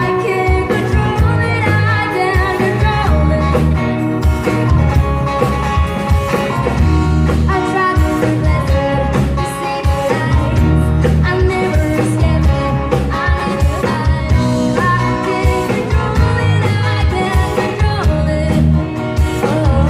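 Live band playing a rock-style song with a singer and guitar, loud and continuous, recorded from in front of the stage.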